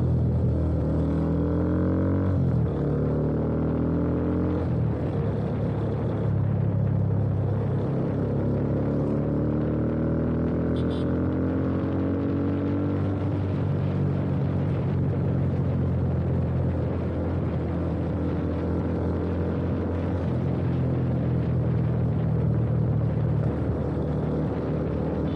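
Yamaha FZ25's single-cylinder engine through an aftermarket full-system exhaust (header pipe and Akrapovič-replica slip-on) pulling up through the gears: revs climb and drop back twice in quick shifts near the start, then rise in one long pull before settling into a steady cruise.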